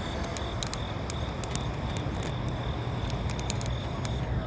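Diesel locomotives idling: a steady low rumble, with a scatter of faint, short, high-pitched ticks over it.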